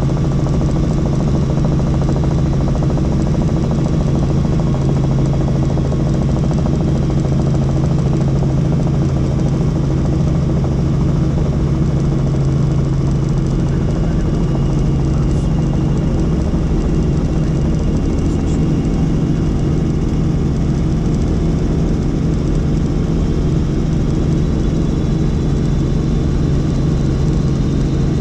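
Helicopter in flight: loud, steady rotor and engine noise with a constant low hum that does not change in pitch.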